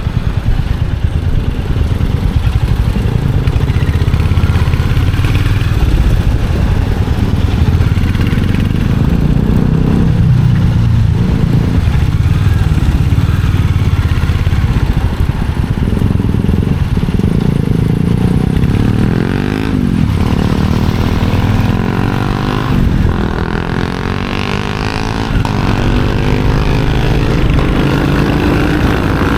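Royal Enfield Hunter 350's single-cylinder engine and exhaust running on the move. In the second half the engine note rises and falls repeatedly with the throttle.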